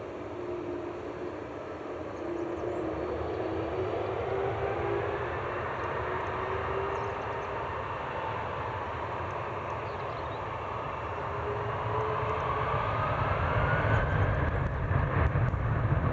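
Jet airliner engines: a whine rising in pitch over a rushing noise, with a low rumble that builds and grows louder in the last few seconds.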